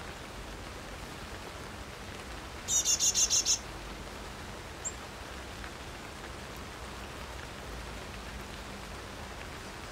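Steady rain falling on a garden. A bird gives a rapid run of about seven quick high notes a little under three seconds in, the loudest sound, and a single short chirp about five seconds in.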